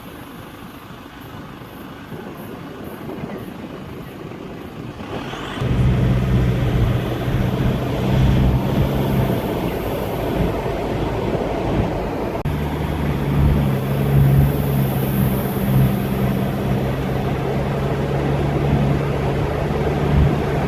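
Vehicle engine running with a steady low hum. It is faint at first, jumps much louder about five and a half seconds in, falters briefly about halfway, and carries on steadily.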